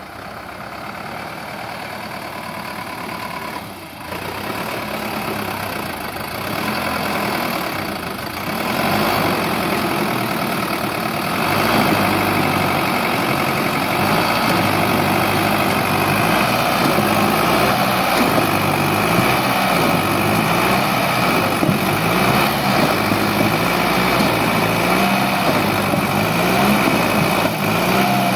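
Sonalika DI 750 tractor's diesel engine running, growing louder over the first twelve seconds or so, then holding steady.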